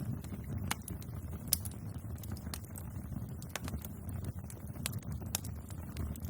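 Bonfire crackling: irregular sharp pops and snaps over a steady low rumble of the flames, with the loudest pop about one and a half seconds in.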